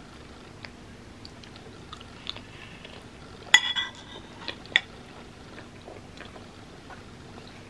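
Close-up chewing of creamy pasta, soft wet mouth clicks, then a metal fork clinks and rings against a ceramic bowl about halfway through, followed by two more quick clicks of the fork in the bowl.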